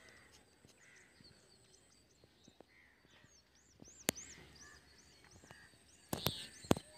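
Faint outdoor birdsong: one bird repeats a high, arched chirp about two or three times a second, with softer calls from other birds behind it. A sharp click comes about four seconds in, and a few louder knocks come near the end.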